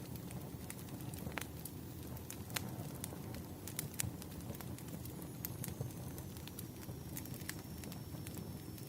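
Wood fire burning: a steady low rush of flames with irregular sharp crackles and pops from the burning logs.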